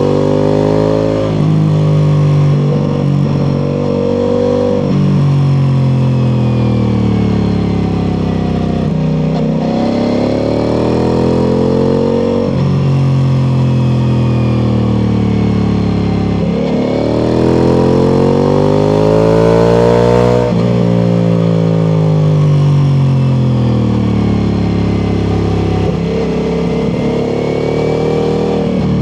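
Ducati Multistrada V4 Pikes Peak's V4 engine through its Akrapovič exhaust, heard on board while riding: the revs climb under throttle, then drop sharply and fall away on engine braking, several times over. The strongest pull comes in the second half. Wind rush runs underneath.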